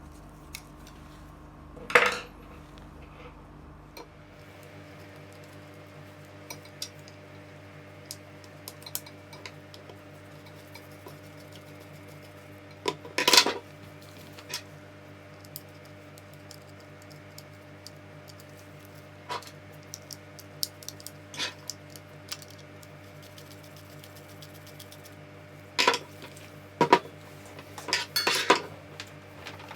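Small metal tools and parts clinking and clattering on a hard surface, in scattered sharp knocks. The loudest come about 2 s and 13 s in and in a cluster near the end, over a faint steady hum.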